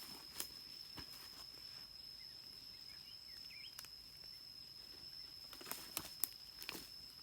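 A steady high-pitched insect drone, with irregular footsteps and crunches on forest ground, several of them close together about six to seven seconds in.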